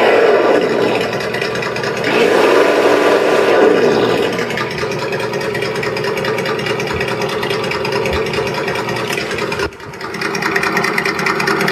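ESS-One Plus engine-sound module in an RC buggy playing its first simulated engine sound through its speaker: revs rising and falling twice, then settling to a steady idle, with a brief dropout about ten seconds in.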